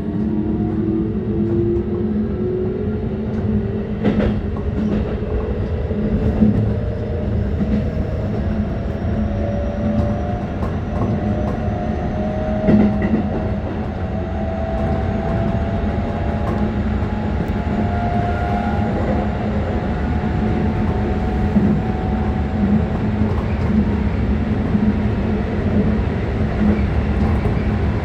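Keikyu 600 series electric train under way, with the traction motor whine rising in several pitches over about the first fifteen seconds as it gathers speed, then holding steady. Under it is a continuous wheel-on-rail rumble, with a few sharp clicks from the track.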